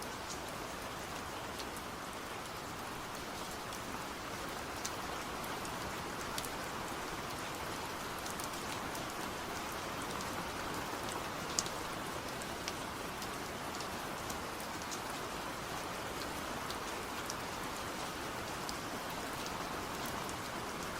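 Steady rain falling: an even wash of rain with many sharper single drops ticking through it, one a little louder about halfway through.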